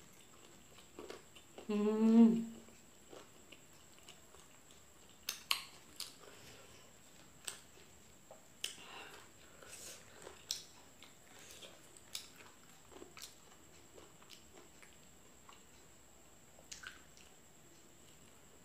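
A person eating with their hands: a short hummed "mmm" about two seconds in, then scattered wet mouth smacks and chewing clicks as fried chicken and rice are eaten.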